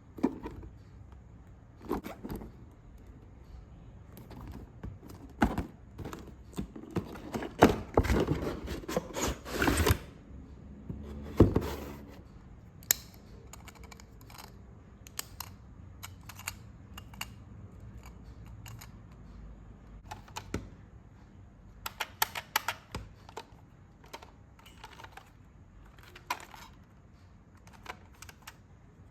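A hard plastic toy and its packaging being handled: scattered clicks, taps and knocks, with a denser run of clicking and rustling about eight to ten seconds in and another short cluster of clicks later on.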